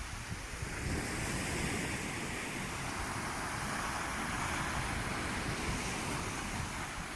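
Sea waves washing onto a shore in a steady surf.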